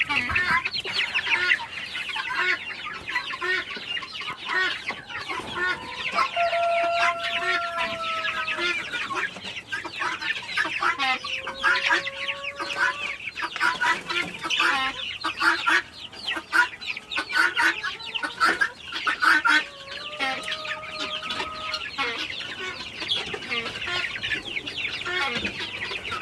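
A flock of young chickens and chicks peeping and cheeping continuously in many overlapping short high chirps. Three times a longer, drawn-out, steady call stands out over the chirping.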